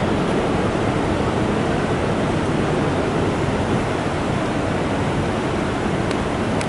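Steady, loud rumble and rush of a train running close by, with a few faint high clicks near the end.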